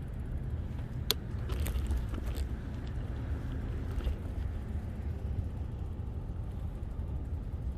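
Steady low rumble of wind and motion on a bicycle-mounted camera's microphone while riding, with a few sharp clicks and rattles about a second in and again around four seconds.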